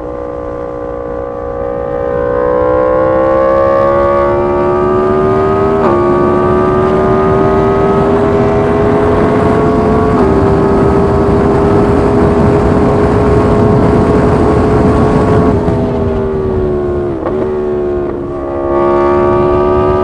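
Yamaha MT-10 SP's crossplane inline-four running through an SC Project exhaust under way: the engine pitch climbs under acceleration with upshifts about six and ten seconds in, holds steady, then falls as the throttle is eased off for a couple of seconds before picking up again near the end.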